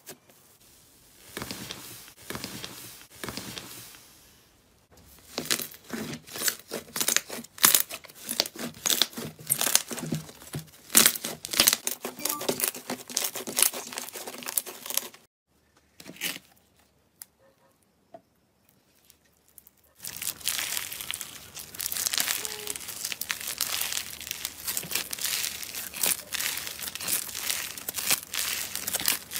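Slime being squished and stretched by hand, making dense crackling and clicking, in several short stretches that start and stop abruptly, with a quieter gap past the middle.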